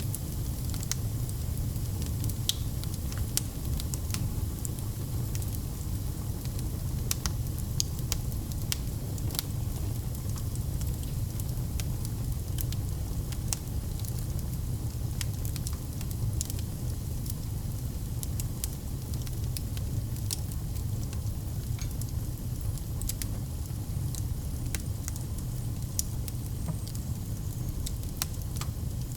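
Wood fire burning in a fireplace: a steady low rumble and hiss of the flames with irregular sharp crackles and pops scattered throughout.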